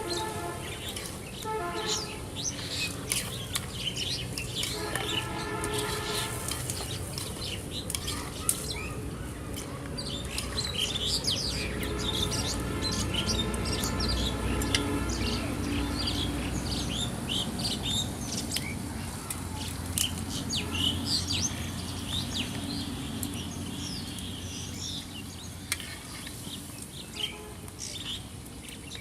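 Many small birds chirping in quick, short calls throughout. A held tone of several pitches sounds on and off underneath, near the start and again around the middle.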